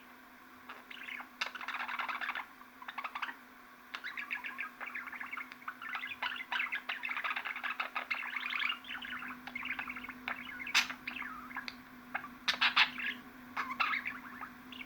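Budgerigar warbling and chattering in rapid runs of chirps and sharp clicks, with short pauses between runs, over a steady low hum.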